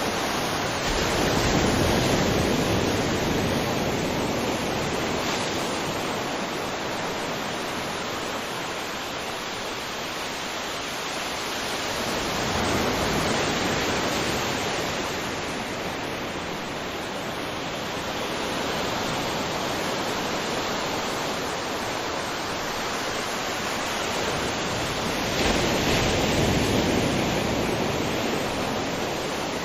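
Ocean waves breaking on a beach: a continuous wash of surf that swells with a wave about two seconds in, another around thirteen seconds and a third near the end, each fading slowly.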